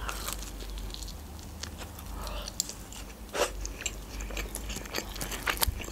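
A mouthful of meat pizza being chewed close to the microphone: soft wet mouth clicks and light crunching, with a sharper click about three and a half seconds in.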